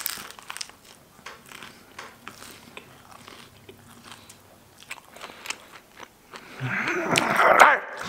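A man bites into a meat-filled bread roll and chews, with soft wet clicks and mouth noises. Near the end comes a louder vocal sound lasting about a second.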